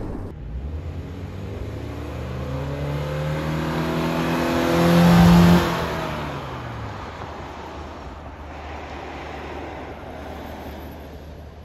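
Subaru Forester Wilderness's flat-four engine accelerating toward and past, its pitch rising and getting louder to a peak about five seconds in. The pitch then drops and the sound fades as the car goes by.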